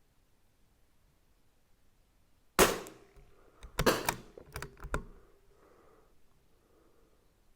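A single shot from a CZ 457 AT-ONE bolt-action .22 LR rifle firing Wolf Match Extra, a sharp crack about two and a half seconds in. About a second later comes a quick run of metallic clicks as the bolt is worked to eject the case and chamber the next round.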